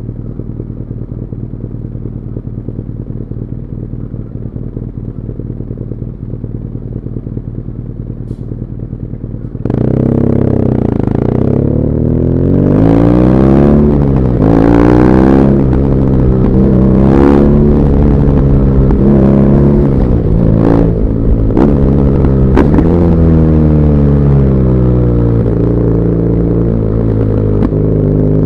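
BMW R nineT Urban GS's boxer twin on its stock muffler idling steadily, then pulling away sharply about ten seconds in. The revs climb and drop through several upshifts, then the engine settles to a steady cruise.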